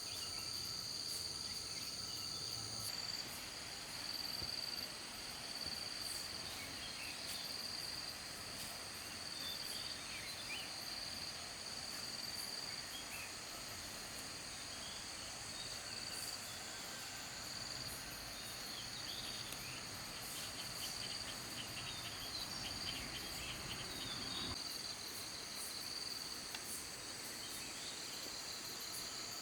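Insects chirring in a steady, high, continuous drone over a quiet outdoor background, with a few short faint chirps scattered through it.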